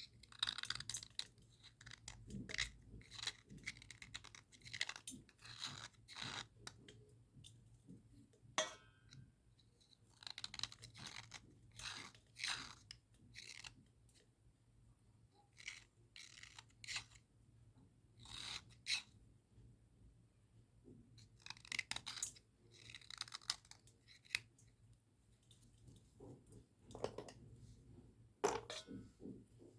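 Dry Cat brand cubical slate pencils scraping and crunching in short, irregular strokes with brief pauses between.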